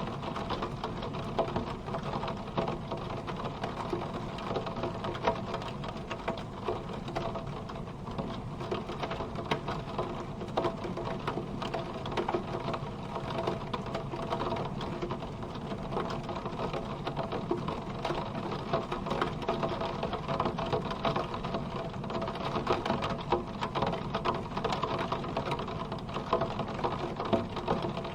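Steady rain drumming on a car's roof and windows, heard from inside the car as a dense, even patter of drops.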